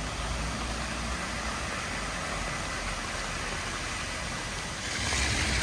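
Steady hiss of heavy rain and street traffic, growing louder about five seconds in.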